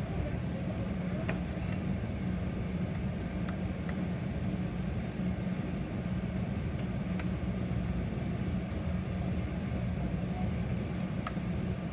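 Steady low rumble of a Metra commuter train running along the track, heard from inside the passenger car, with a few sharp clicks scattered through it.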